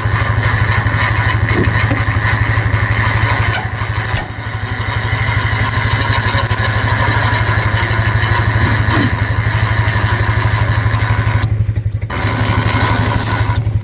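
Small engine running steadily with a fast, even pulse. The higher part of the sound drops out briefly about four seconds in and again near the end.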